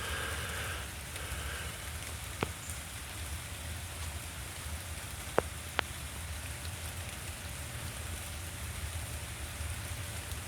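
Steady rain falling, with three sharp taps, about two and a half seconds in and then two close together near the middle.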